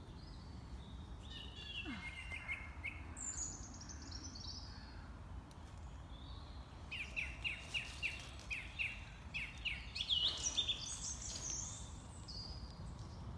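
Woodland songbirds singing: several separate song phrases of quick repeated high notes, some stepping down in pitch, the longest a run of about three seconds past the middle, over a steady low background rumble.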